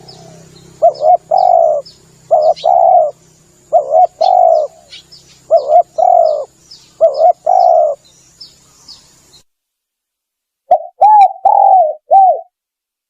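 Spotted dove (tekukur) cooing, a repeated phrase of two short notes and a longer one about every second and a half, played as a lure call to draw in wild doves. Small birds chirp faintly behind the first part. After a sudden break with the background cut off, one more coo phrase comes near the end.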